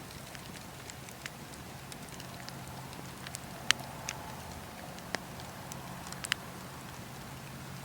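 Campfire crackling, with irregular sharp pops from the burning wood; the loudest pop comes about halfway through and two more follow in the second half.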